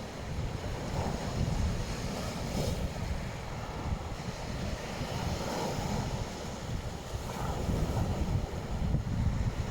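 Black Sea waves washing onto the beach in a steady wash of surf that swells and eases, with wind buffeting the microphone as a gusty low rumble underneath.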